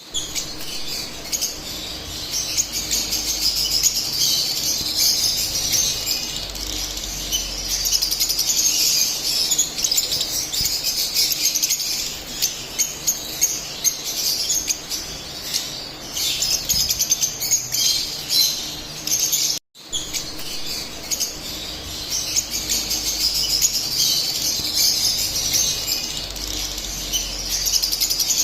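Split albino lovebirds chattering, a dense stream of rapid high-pitched chirps and squeaks from several birds at once. It breaks off for a split second about two-thirds of the way through.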